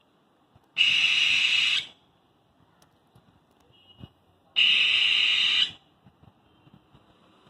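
A person shushing, two long "shh" sounds about a second each, nearly four seconds apart, as in hushing a little one to sleep.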